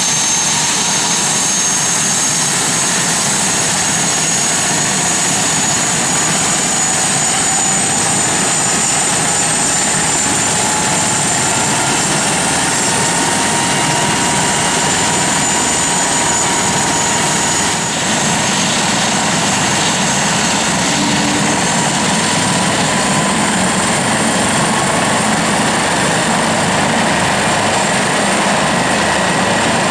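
Airbus Helicopters H145 twin-turbine helicopter running: a steady rush of rotor and engine noise with a high turbine whine that rises slowly in pitch, then holds.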